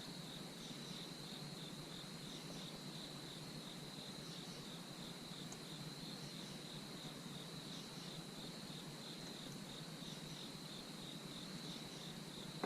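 A cricket chirping steadily in a quick, even rhythm of high-pitched pulses, faint in the background.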